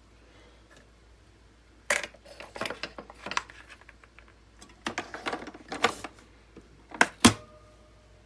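A series of irregular sharp clicks and knocks, as of hard parts being handled and set in place. The sounds start about two seconds in and end in two loud knocks close together about seven seconds in, the second leaving a brief ringing tone.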